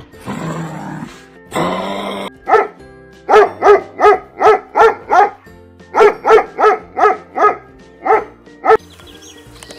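A dog barking in quick runs of short, high barks, about three a second: eight in a row, a brief pause, five more, then two single barks. Soft background music runs underneath, and two rough noisy sounds come before the barking.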